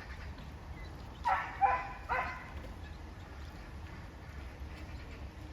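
Duck quacking: three short, harsh quacks in quick succession, about a second in.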